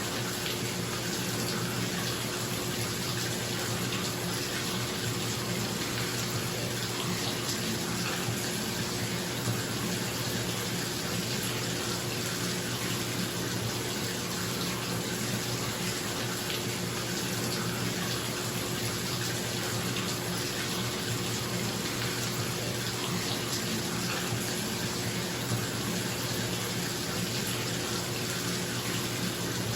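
Bathtub tap running steadily into the tub, with a bathroom exhaust fan humming underneath.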